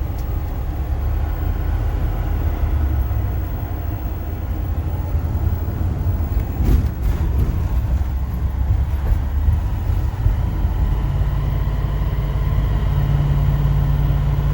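Car driving along a road, heard from inside the cabin: a steady low rumble of engine and tyres, with a couple of brief knocks about seven seconds in and a low steady hum that grows stronger near the end.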